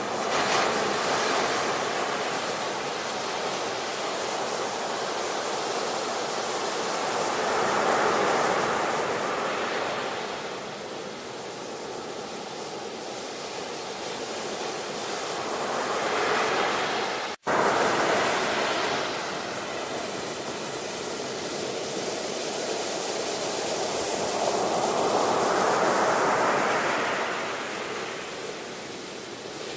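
Ocean waves breaking and washing in, the surf swelling and fading every eight or nine seconds. About halfway through, the sound cuts out for a split second.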